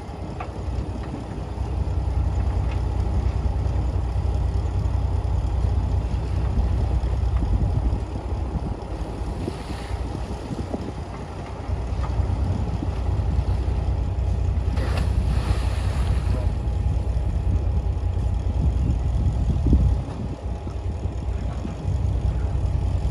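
Bulldozer's diesel engine running at work, a deep steady rumble that eases off twice and comes back.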